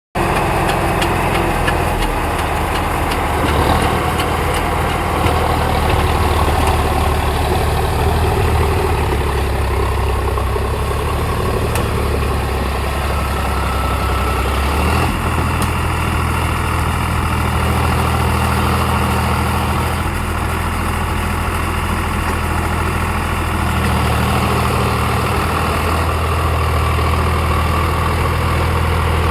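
Sonalika tractor's diesel engine running steadily, its note shifting slightly about halfway through.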